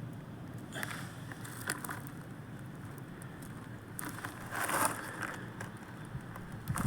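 Bonfire of tree branches burning, with scattered sharp crackles and pops over a steady low rushing noise; a cluster of crackles comes around four to five seconds in.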